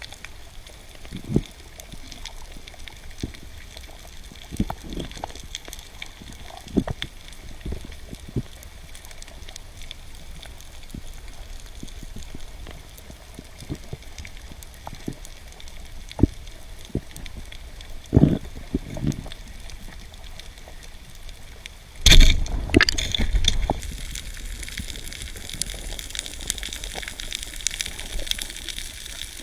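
Water heard underwater through a camera housing: low steady water noise with scattered knocks and thumps, then a sudden loud rush of water about 22 seconds in, after which a brighter hiss carries on.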